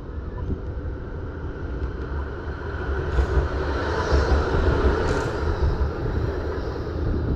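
Wind rumbling on the microphone of a moving bicycle over outdoor traffic noise, which swells to its loudest about four to five seconds in and then eases.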